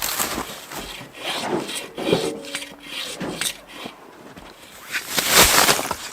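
Hand saw cutting firewood: uneven rasping strokes of the blade through wood, the longest and loudest stroke a little after five seconds in.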